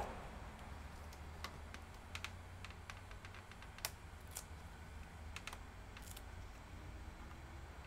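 Scattered light clicks and taps of small laptop parts being handled during disassembly, irregular and a second or so apart, over a low steady hum.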